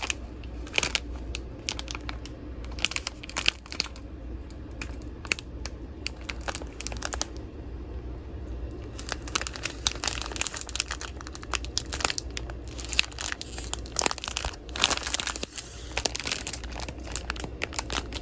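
Small plastic bags of diamond painting drills crinkling and rustling as they are handled and sorted, in irregular bursts with a quieter stretch in the middle.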